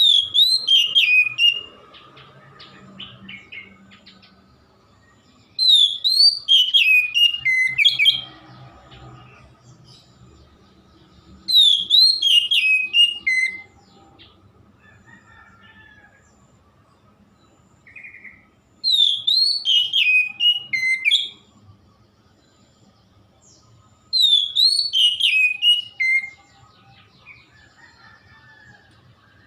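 Oriental magpie-robin (kacer) singing: five loud phrases of clear, down-stepping whistled notes, each about two seconds long, with pauses of a few seconds between them.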